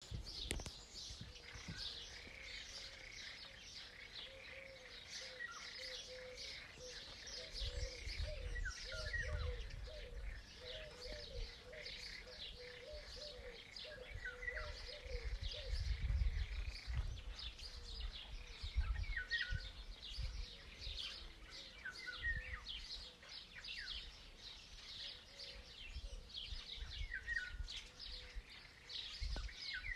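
Several small birds chirping and singing, with many short, quick calls overlapping. A lower warbling call repeats underneath through much of it, and there are occasional low rumbles.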